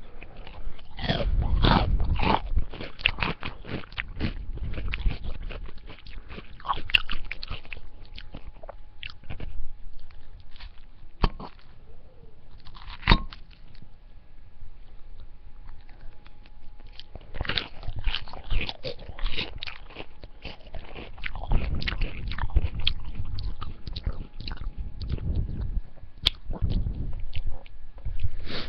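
Salad being bitten and chewed, crunching in several bouts of rapid crunches with quieter stretches between, and two single sharp clicks near the middle.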